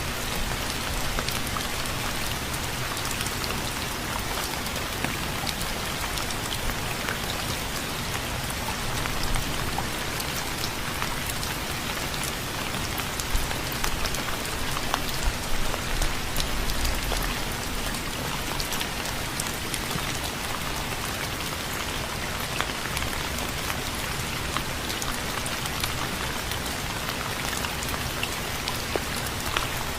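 Steady rain falling, with many individual drops pattering on a surface and a few louder drop hits about halfway through.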